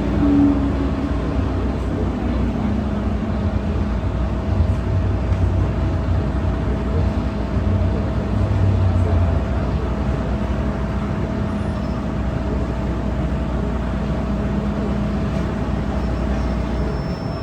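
MTR M-Train electric multiple unit running on the line: a steady rumble of the car and wheels on rail, with a steady whine from the train's equipment running through it.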